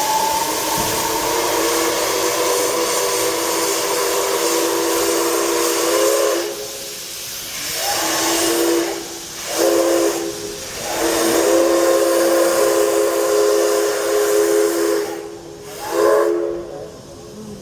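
Steam whistle of the C61 2 steam locomotive blowing, several tones at once: a long blast, two short toots, another long blast and a final short toot near the end, over a steady hiss of escaping steam.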